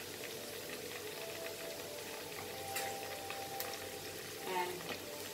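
Chopped onions and ginger garlic paste frying in hot oil in a pan: a steady sizzle, with a few faint clicks.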